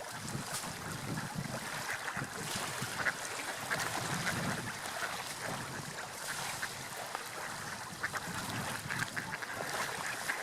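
Seagulls calling in short repeated cries over a steady wash of sea surf.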